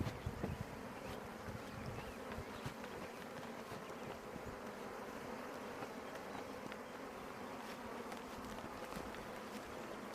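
A mass of honey bees buzzing in a steady hum: a newly installed package colony of about ten thousand workers around the hive, with a light knock or two at the start.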